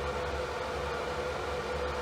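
Electric fan running steadily: an even rushing noise with a low hum and a steady mid-pitched tone from the motor, unchanging throughout.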